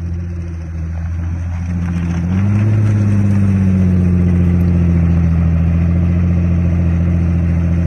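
Pagani Utopia's V12 engine running steadily at idle, a low even drone. A little over two seconds in its pitch and loudness step up slightly and hold there.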